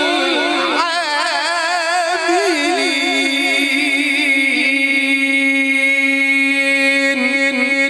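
Male Quran reciter's voice in melodic tajwid recitation, holding one long drawn-out vowel. The pitch turns in quick wavering ornaments for the first few seconds, then settles into a steady held note.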